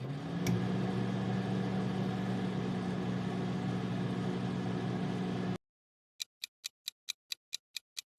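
Microwave popcorn cooking: the oven's steady hum rises in pitch as it starts and then settles, with a sharp click about half a second in. The hum cuts off and a countdown ticks at about five ticks a second.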